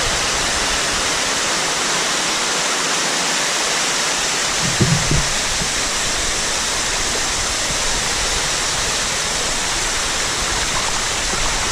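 Dunn's River Falls' water rushing and cascading over the rocks close by, a loud steady roar of falling water. A brief low bump about five seconds in.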